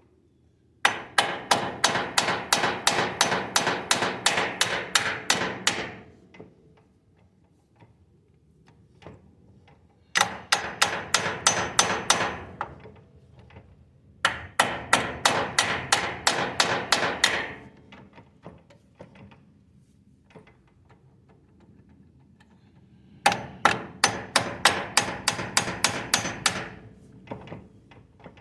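Rapid hammer blows on metal, about four a second, in four runs of a few seconds each with pauses between, driving a part onto the front drive shaft of a Kubota BX2200 compact tractor.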